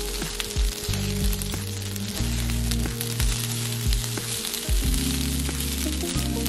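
Rice and veggie chicken stir-fry sizzling in a nonstick frying pan while a silicone spatula stirs and turns it, with scattered scrapes of the spatula against the pan. Background music with a low bass line plays underneath.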